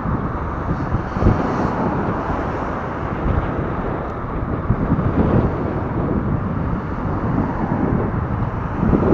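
Wind buffeting the microphone of a camera riding on a moving recumbent bicycle: a steady, gusting low rumble with no clear events.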